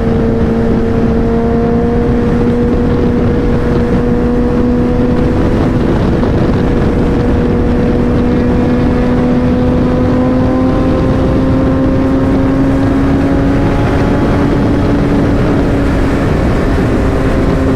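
Motorcycle engine running at a steady cruise, its pitch creeping slowly upward as the bike gradually gains speed.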